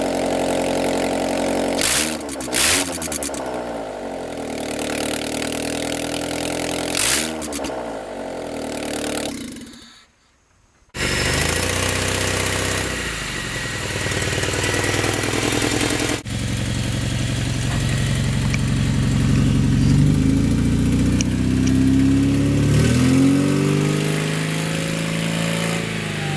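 Honda Civic four-cylinder engine running with its headers removed, so it exhausts straight out of the head. It idles with quick revs about two, three and seven seconds in, and the sound drops out briefly about ten seconds in. It then runs again, with a couple of rising revs near the end.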